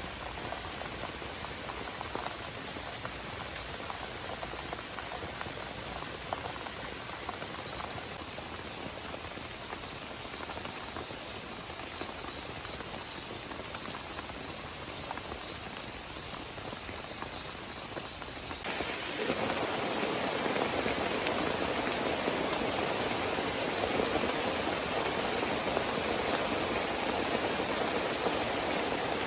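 Heavy rain falling steadily, a dense patter of drops. About 19 seconds in it switches abruptly to a louder, fuller rain.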